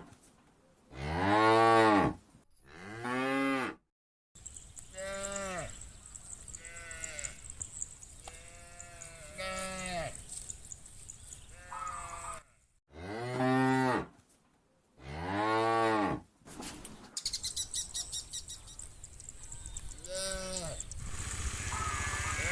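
Cattle mooing, many separate long calls one after another from several cows, some loud and close, others fainter. Steady low ambient noise lies underneath from about four seconds in.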